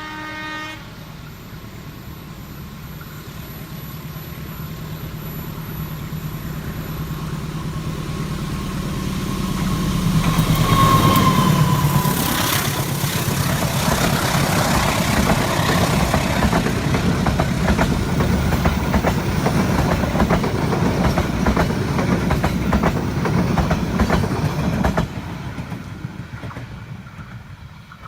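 A long train speeding past: the engine drone builds as it approaches, peaks close by about ten seconds in, then the wagons rattle over the rail joints before the sound fades near the end. A short horn-like note sounds right at the start.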